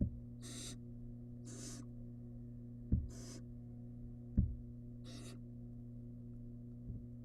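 Barn owl nestling giving four short, hissing begging calls, spaced a second or two apart. A few dull thumps sound in between, over a steady low hum.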